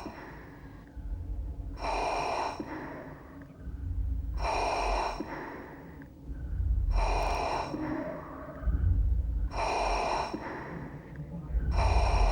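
Rhythmic breathy whooshing pulses from a film trailer's soundtrack, one about every two and a half seconds, over a deep rumble.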